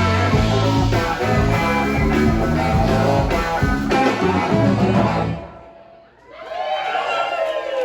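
Live rock-blues band with electric guitar playing, the song ending about five seconds in. After a short gap comes a voice-like shout whose pitch slides down.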